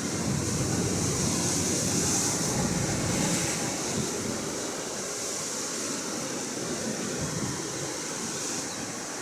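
Atlantic Ocean waves washing on the shore, a steady surf hiss that swells in the first few seconds and then eases off.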